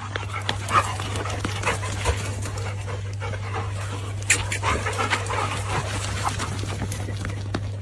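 A dog making short breathy and squeaky vocal sounds, over a steady low hum.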